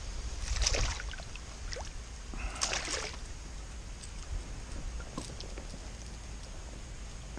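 Two short splashes of water beside a kayak, about two seconds apart, over a steady low rumble.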